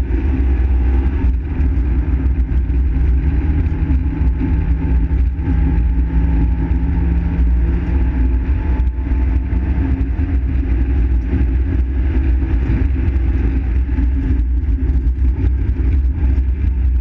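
Fiat Seicento rally car's engine running hard at speed, heard from inside the cabin, with a strong deep rumble underneath. The engine note holds steady for the first half and shifts about halfway through.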